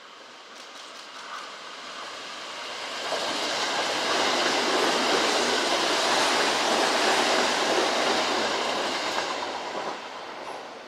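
Kintetsu electric train going by on the tracks: the rumble and clatter of wheels on rails builds over a couple of seconds, stays loud for several seconds, then fades away near the end.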